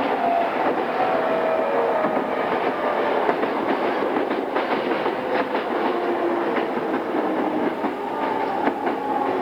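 Running noise inside a pre-renewal JR East E217-series motor car: a steady rumble of wheels on rail with scattered clicks at rail joints. Faint electric motor and inverter tones step and drift slightly in pitch throughout.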